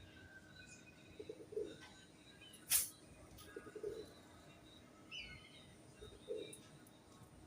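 Pigeons cooing in low pulsed phrases about every two to two and a half seconds, with small birds chirping thinly over them. A single sharp, short sound a little before the third second is the loudest thing.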